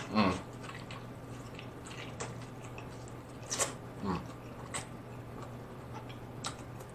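Close-miked eating of a Chicago-style Polish sausage sandwich: a bite into the soft bun just after the start, then quiet chewing with scattered wet mouth clicks and smacks. Twice there is a short falling hum, once at the start and once about four seconds in. A faint steady low electrical hum sits underneath.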